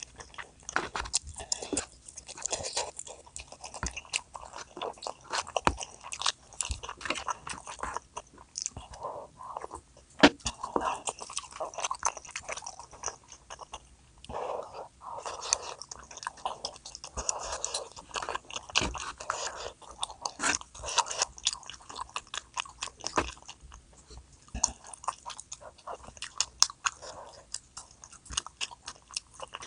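Close-miked eating sounds of a person chewing and biting food, with many sharp irregular clicks and wet mouth noises.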